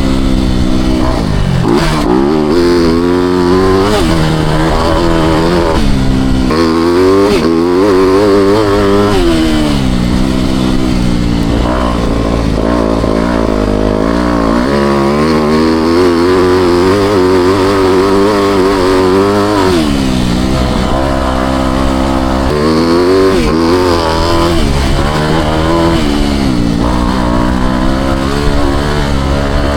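Four-stroke motocross bike engine being ridden hard, its revs climbing and dropping again and again.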